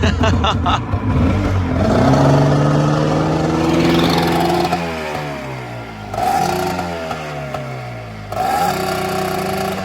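Engine revved hard several times: the pitch climbs and holds, then falls away as it drops back, and it is blipped up twice more.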